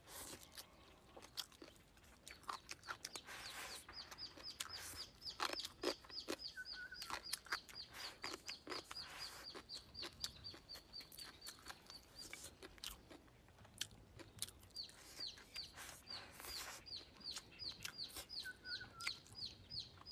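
Close chewing and crunching of fried fish with wet mouth clicks. Behind it a small bird calls over and over, a run of short high falling notes about three a second that pauses briefly around the middle.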